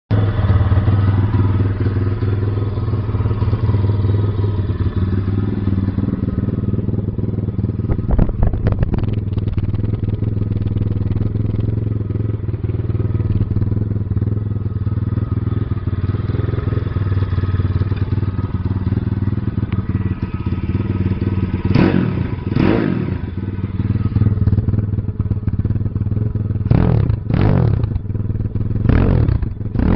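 Pit Pro 140XR pit bike's single-cylinder four-stroke engine idling steadily, with a short throttle blip about eight seconds in, two revs around twenty-two seconds, and a few quick revs near the end. The engine is run in and running well.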